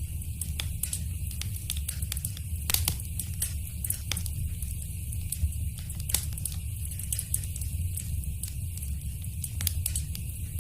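Wood fire burning in a fireplace: a steady low rumble with frequent sharp crackles and pops, two of them louder, about a third of the way in and again past the middle.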